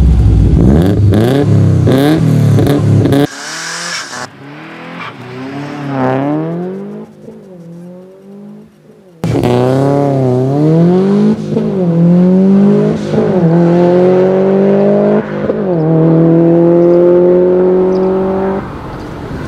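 Modified Subaru Impreza WRX STi Type R's turbocharged flat-four engine revving and accelerating hard, its pitch climbing and then dropping back at each gear change, with sharp cracks in the first few seconds. The sound is cut together from separate clips, jumping sharply in loudness about three and nine seconds in.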